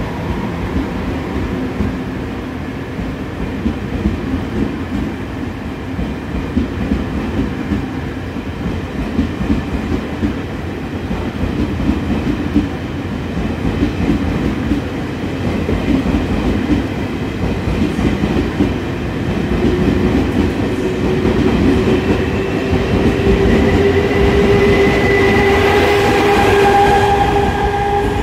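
Train running on rails, with a steady rumble and clatter of the wheels. Over the last eight seconds or so a whine comes in, growing louder and rising slightly in pitch.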